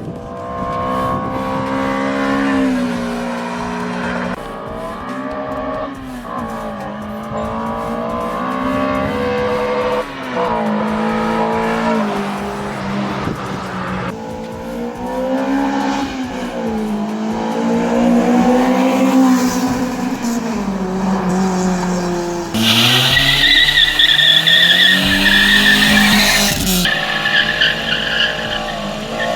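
Toyota 2ZZ-GE 1.8-litre four-cylinder on its stock exhaust, revving hard and pulling through the gears, its pitch climbing and dropping back at each shift. From about two-thirds of the way in, tyres squeal for several seconds over the engine.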